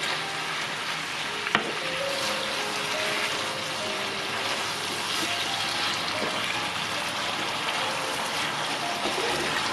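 Duck bulgogi sizzling in a nonstick frying pan as it is stirred with a wooden spatula, with a single sharp knock about one and a half seconds in.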